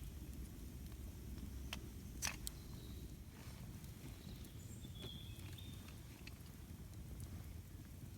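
Campfire crackling over a low steady rumble, with a few sharp pops about two seconds in, the middle one loudest. Short, faint, high bird chirps come and go.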